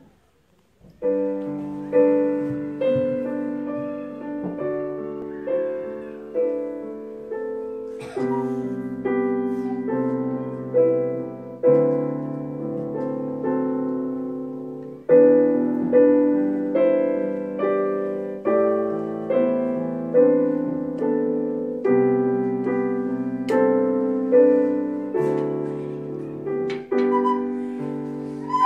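Piano playing an introduction of chords and melody, each note struck and left to fade, starting about a second in.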